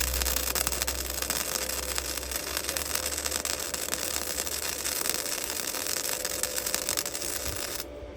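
Electric welding arc crackling steadily as a weld bead is run to join the broken adjustment arm back onto a push mower's steel front axle; it starts suddenly and cuts off near the end.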